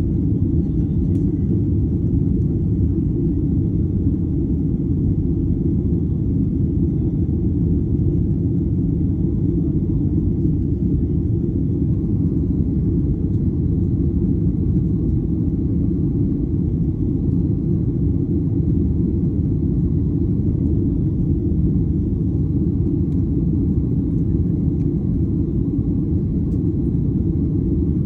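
Steady low rumble of a jet airliner's engines and airflow heard from inside the passenger cabin in flight, holding level without change.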